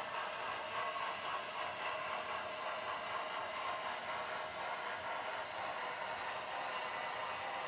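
Model train running on its track: a steady rolling, rushing noise with no distinct clicks or changes.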